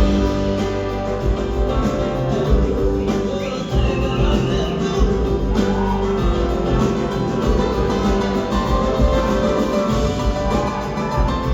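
Live band playing an instrumental passage, with guitar to the fore and no singing. A single gliding high note sounds in the middle.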